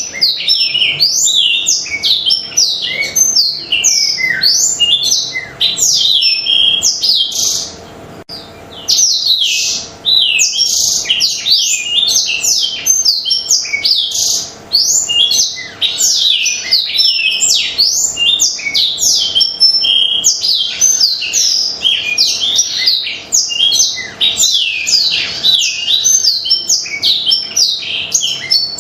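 Black-throated canary (blackthroat) singing a long, fast, unbroken song of rapid high chirps, sweeps and trills, with brief pauses about eight and fifteen seconds in.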